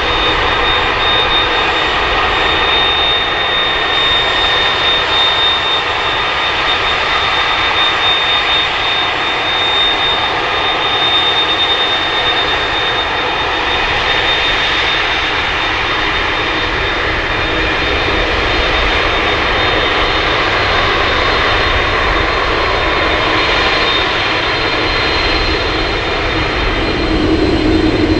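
Jet engines of a three-engined airliner running loud and steady, with a thin high whine over the engine noise.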